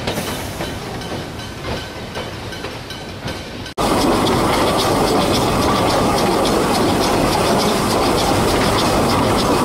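Narrow-gauge Beyer-Garratt steam locomotive G42 running with its train, wheels clicking over the rail joints. About four seconds in the sound cuts abruptly to a louder, closer run with a steady hiss of steam and regular beats.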